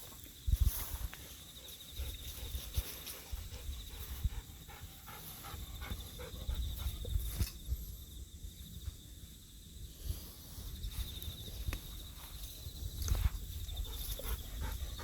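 Golden retriever panting close by, with scattered small clicks and rustles.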